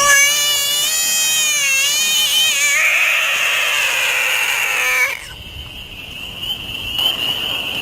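An animal's long, wavering call, loud and pitched, that turns raspy and breathy before it stops about five seconds in. A steady high whine runs underneath.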